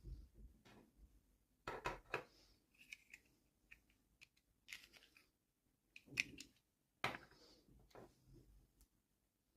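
Hands handling toy packaging and small plastic pieces: a quiet, irregular series of short clicks, rustles and snipping sounds.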